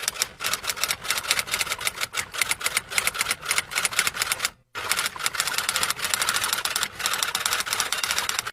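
Fast, irregular typing clicks on keys, with a brief pause about halfway through.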